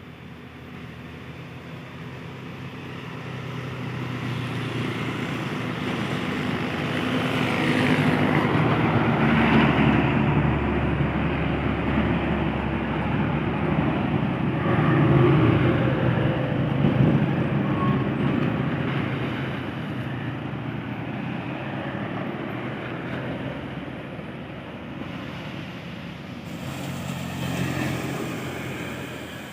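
Heavy truck's diesel engine pulling up a steep climb, growing louder as it approaches, loudest about halfway through, then fading as it moves away.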